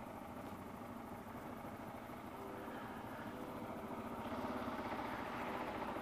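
Kawasaki KLR650's single-cylinder engine running steadily under wind noise, with a steady tone coming in about two seconds in and the sound growing a little louder past the middle.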